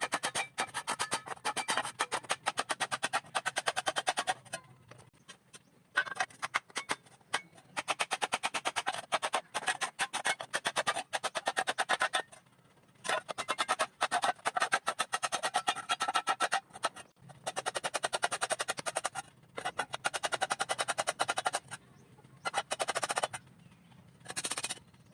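Stick-welding arc with an E6013 rod crackling and spitting in runs of a few seconds, broken by short pauses where the arc stops, with a low hum underneath.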